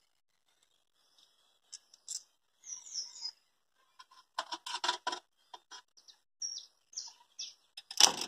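Small birds chirping in short, quick calls, mixed with clicks and rattles as the wiring on a tractor engine is handled. A single sharp, loud snap comes near the end.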